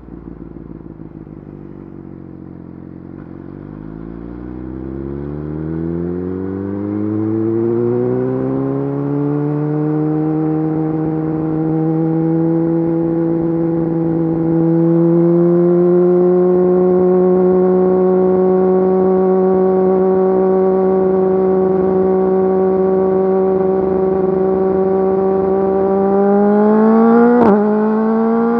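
Yamaha YZF-R6 inline-four through an Akrapovič full exhaust system, pulling up through the revs for several seconds, then holding steady revs while cruising. Near the end the revs rise, then rise and drop sharply, as in a gear change, and settle slightly higher.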